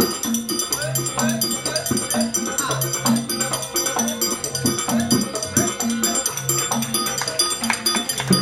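Traditional Banyuwangi Gandrung ensemble music: drums and percussion in a steady repeating rhythm, with high ringing over it.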